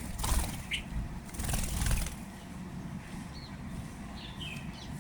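Birds flapping their wings in rough bursts for the first two seconds, followed by a few faint, short bird chirps.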